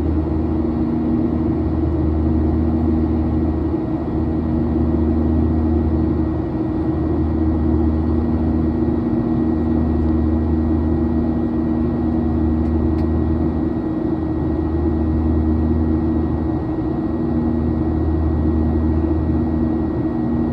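Steady low drone of an airliner's engines and airflow, with a thin high whine running over it.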